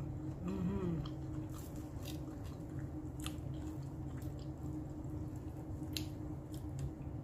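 Close-up chewing with wet mouth smacks and clicks, a short hummed "mmm" about half a second in, and a few sharp clicks of a metal fork cutting pancake on a wooden board. A steady low hum runs underneath.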